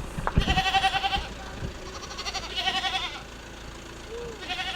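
Bleating livestock: three quavering bleats, one near the start, one in the middle and a short one near the end, with a low thump at the start.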